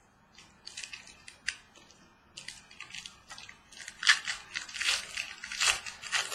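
Trading cards and packs being handled by hand: a run of short crinkling and cardboard-flicking clicks that grows busier and louder about four seconds in.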